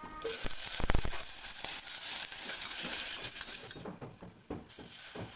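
Food sizzling in hot oil in a pan while it is stirred, with a few knocks of the utensil against the pan, the loudest about a second in. The sizzle dies down about four seconds in.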